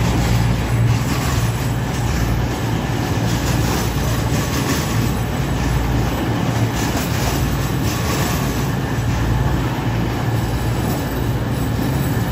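Class 222 Meridian diesel multiple unit running into the station: a steady low drone from its underfloor diesel engines over the rumble of wheels on rail, with scattered clicks from the wheels on the track.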